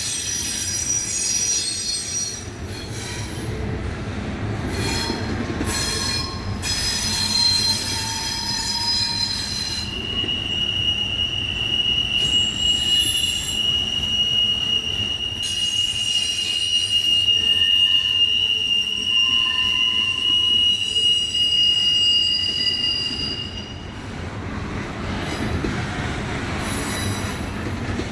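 Train wheels squealing against the rails over a steady rolling rumble. Several high squeals come and go at first, then one long steady high squeal holds through the middle before fading near the end.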